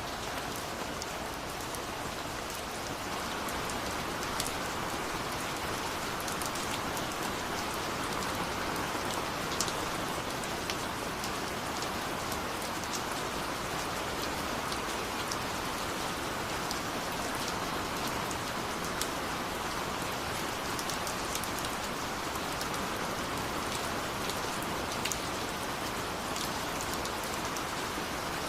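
Steady rain falling, a continuous hiss with many small drops pattering.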